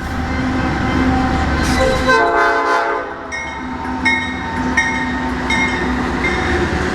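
Norfolk Southern freight train passing, with a steady low rumble. About two seconds in, the locomotive's air horn sounds a chord for about a second. After that comes a regular clicking about every 0.7 s, wheels going over rail joints.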